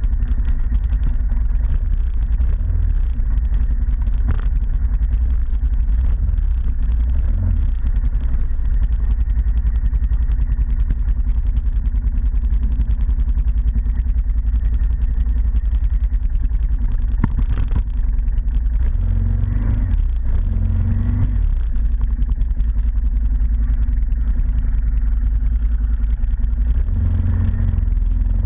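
ATV engine running steadily on the move, with brief swells in engine sound about twenty seconds in and again near the end.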